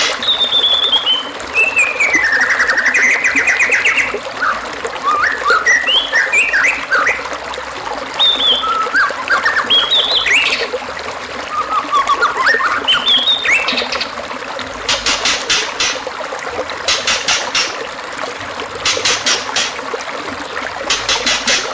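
Songbird song: a long whistle sliding down and then warbling, followed by scattered short chirps and quick whistled glides. In the last third come short, very fast, high rattling trills about every two seconds, all over a steady background hiss.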